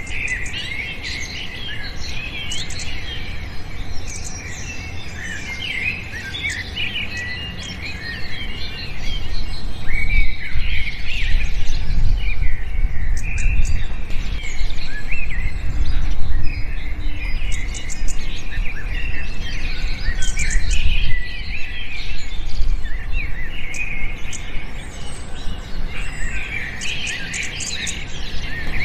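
Many small birds chirping and twittering at once: a dense chorus of short, high calls, over a low background rumble that grows louder in the middle.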